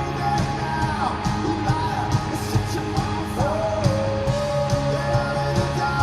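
Rock band playing live with a steady drum beat, guitars and a singer holding long notes that slide between pitches.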